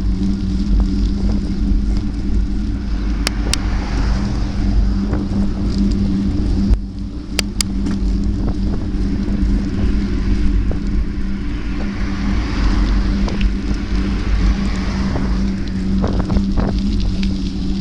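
Steady riding noise: a continuous low hum with wind buffeting the microphone. Two pairs of sharp clicks come about three seconds in and again about seven and a half seconds in.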